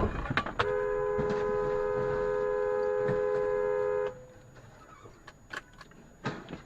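Car horn held for about three and a half seconds, two steady tones sounding together, starting abruptly and cutting off suddenly; a few faint clicks follow.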